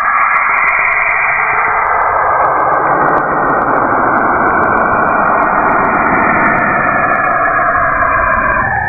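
Saturn's radio emissions recorded by a space probe and converted to audio: a steady, rushing, hiss-like drone with faint crackles.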